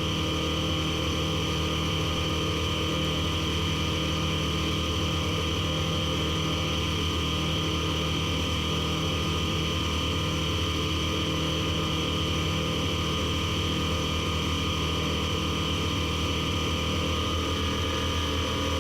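Piper Super Cub floatplane's engine and propeller droning steadily in cruise flight, heard from inside the cockpit.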